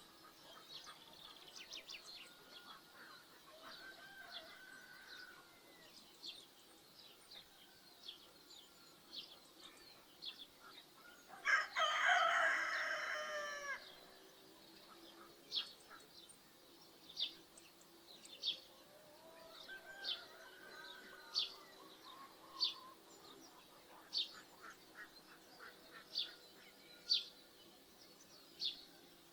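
Rooster crowing once loudly, about twelve seconds in, with fainter crowing from other roosters before and after. Small birds chirp throughout, and from about fifteen seconds one bird gives a sharp chirp about once a second.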